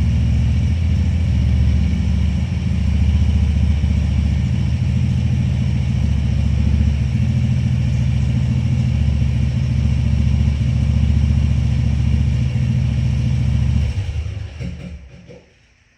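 Tractor engine running steadily with a low rumble, then shut off near the end, dying away over a second or so.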